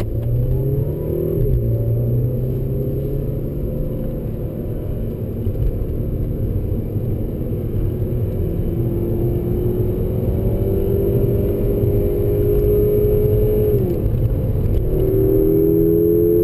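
Volkswagen Golf GTI Mk6's turbocharged four-cylinder engine heard from inside the cabin, accelerating under a steady road rumble. The engine note climbs and drops at an upshift about a second and a half in. It then climbs slowly, drops at another upshift near the end, and starts climbing again.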